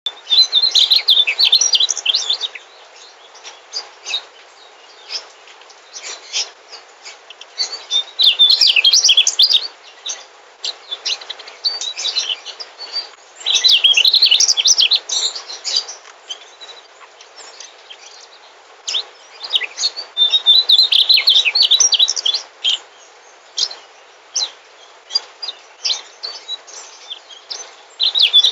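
Mugimaki flycatcher singing: rapid, high twittering phrases about two seconds long, repeated roughly every five to six seconds, with scattered short chips between them over a faint steady hiss.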